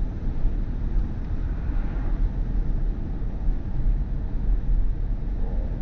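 Steady low road and tyre rumble inside the cabin of a moving BMW i4 M50 electric car, with no engine note.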